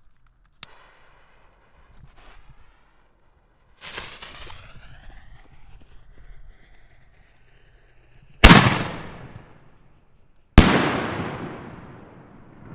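5-inch canister firework shells going off: a softer rushing noise about four seconds in, then two very loud bangs about two seconds apart, each trailing off in a long, echoing rumble.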